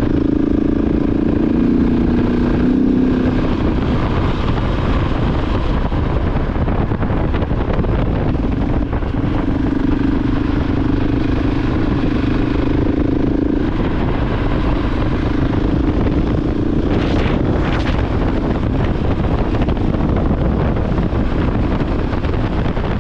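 KTM 690 Enduro R's single-cylinder engine running at road speed, its note holding steady, easing off a few seconds in and picking up again, under heavy wind rush on the microphone. A brief rushing sound passes about three-quarters of the way through.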